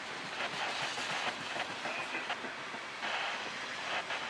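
Freight train cars rolling past close by: steel wheels clicking over the rail joints over a steady rushing rail noise.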